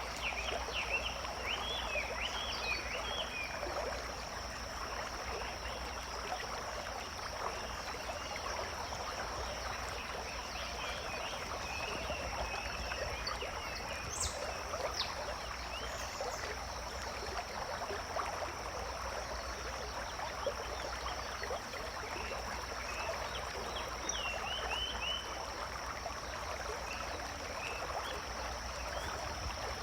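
Forest ambience dominated by a dense chorus of frogs croaking, over a steady high-pitched whine. Clusters of short chirps come in at the start, again about twelve seconds in, and near twenty-four seconds.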